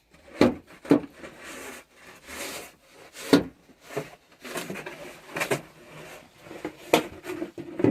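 Snow shovels scraping and chopping at snow lying over ice: a run of sharp scrapes and knocks with rasping strokes between them.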